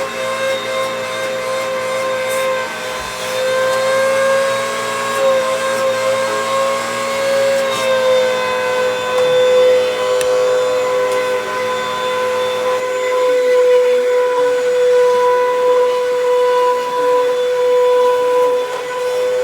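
Upright vacuum cleaner running during a suction test, a loud steady motor whine. Its pitch wavers slightly and shifts about eight seconds in. Around thirteen seconds in, the low rumble under the whine drops away.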